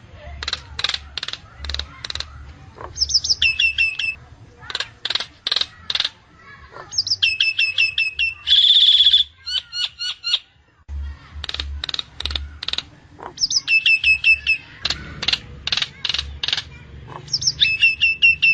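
Nias hill myna calling: quick runs of sharp clicking notes alternating with short whistled phrases, and one harsh, buzzy call about nine seconds in.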